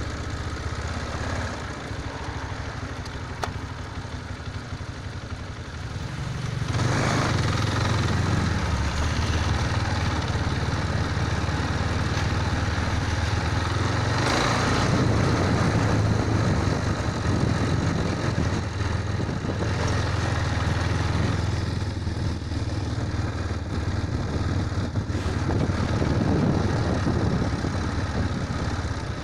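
Motorcycle engine running steadily, getting louder about six and a half seconds in and staying there.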